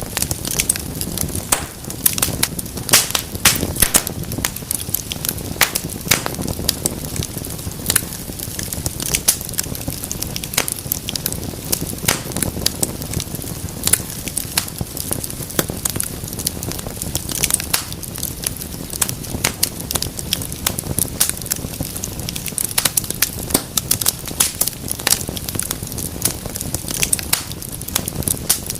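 Wood fire crackling and popping, with dense sharp snaps over a low, steady rumble of the burning logs.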